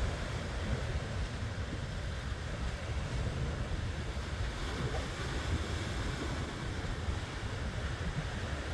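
Ocean waves and surf washing steadily, with wind buffeting the microphone in a low, fluttering rumble.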